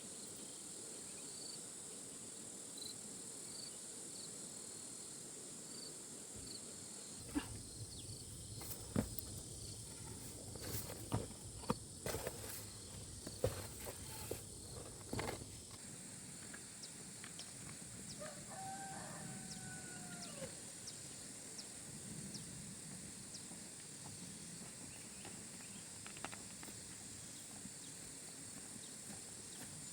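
Insects drone steadily at a high pitch. Between about 7 and 15 seconds come a series of sharp knocks and snaps, and a short animal call follows a few seconds later.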